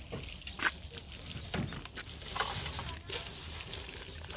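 A handful of light, sharp knocks and clicks at irregular intervals over a faint hiss, typical of handling utensils and cookware.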